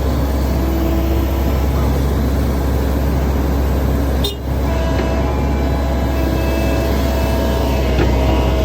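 Excavator diesel engine running steadily with a deep hum, broken by a brief drop about four seconds in.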